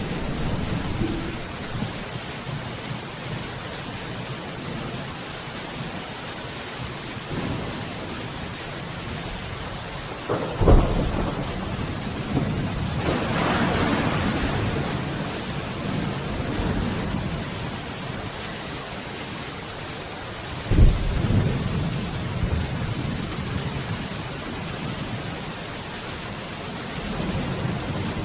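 Steady rain falling during a thunderstorm. Two sharp cracks of thunder land about ten seconds apart, a third of the way in and again about two-thirds of the way in, each followed by a rolling rumble.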